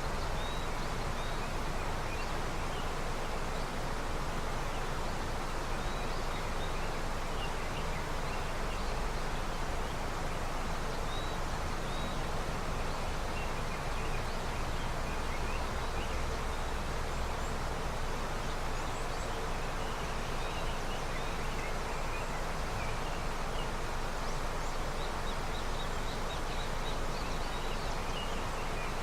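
A river running high with snowmelt: a steady rush of flowing water, with short high chirps scattered over it now and then.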